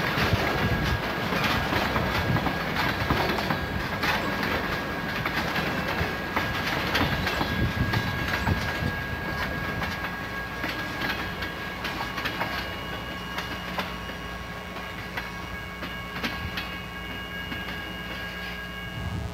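Freight train cars rolling past, their steel wheels clacking over rail joints. The sound fades gradually over the second half as the end of the train goes by.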